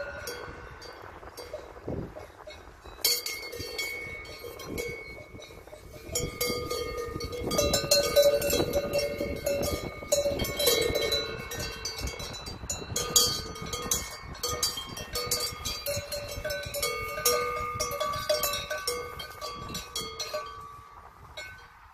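Several cowbells on the necks of Brown Swiss cows clanking and ringing at a few different pitches, picking up about three seconds in and thinning out near the end.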